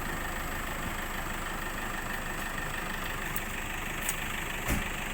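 An engine running steadily, with a couple of faint clicks near the end.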